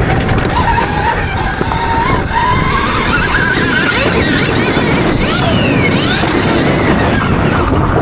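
Stark Varg electric motocross bike's motor whining, its pitch rising and falling with speed, over a loud low rumble.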